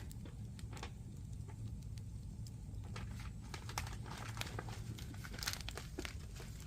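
Wood fire crackling: irregular snaps and pops over a steady low rumble, the sharpest pop about five and a half seconds in.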